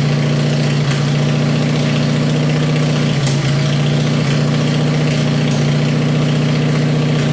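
Kohler KT17 air-cooled twin-cylinder engine of a Simplicity garden tractor running steadily just after a cold start; the engine is worn out, with blow-by.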